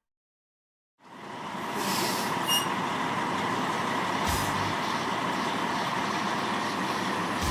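Heavy trucks running, a steady mechanical noise that comes in about a second in after silence, with two short hisses of air partway through.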